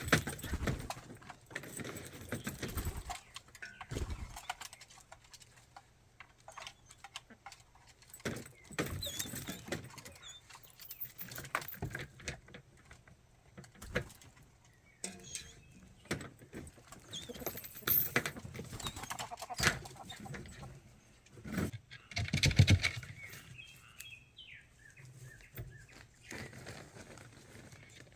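Chickens clucking now and then among scattered knocks, clatter and rustling, loudest a little after twenty seconds in.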